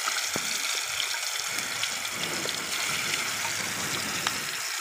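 Marinated chicken pieces frying in hot oil in a kadai: a steady sizzling hiss with scattered crackling pops.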